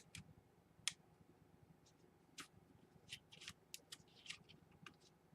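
Faint, scattered clicks and light rustling of small plastic laptop parts being handled during reassembly.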